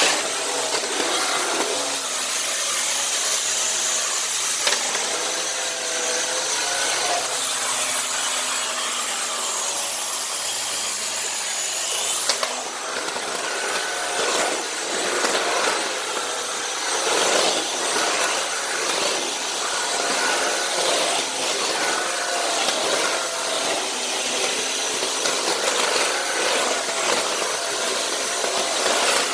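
Dyson Cinetic canister vacuum running with a steady high whine, its floor head swept back and forth over tile with a shifting rubbing, sucking noise.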